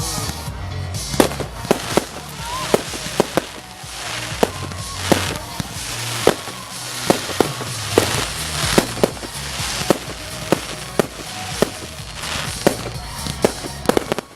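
Fireworks display: a rapid, irregular string of sharp bangs and crackles, with hissing swells between them.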